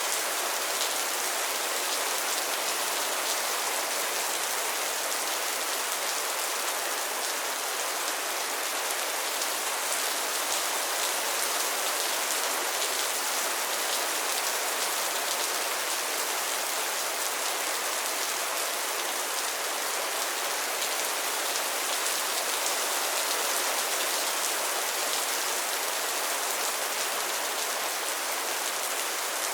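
Steady rain falling on a pond and its floating lily pads, an even hiss of many small drops pattering on water and leaves.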